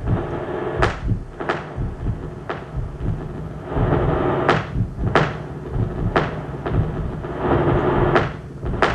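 Experimental noise performance: irregular sharp bangs and knocks, each with a short ring, over a steady low drone, with a rushing noise that swells up twice.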